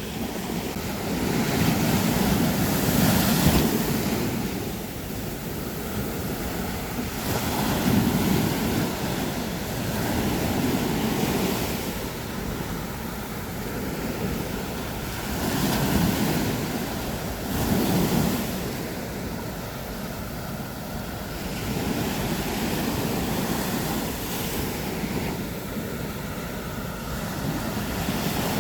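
Sea waves breaking and washing up a beach, the surf swelling and falling back every few seconds, with some wind rumbling on the microphone.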